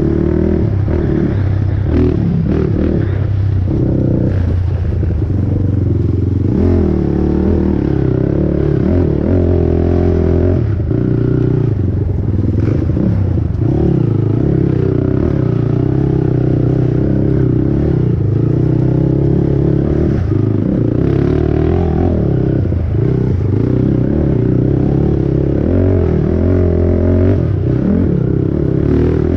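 450R race quad's single-cylinder four-stroke engine running hard, revs rising and falling again and again as the rider accelerates and backs off, with some clattering from the machine over rough ground.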